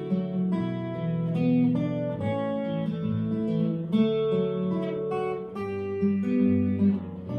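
Acoustic guitar strumming chords in the instrumental introduction of a folk song, with no singing yet.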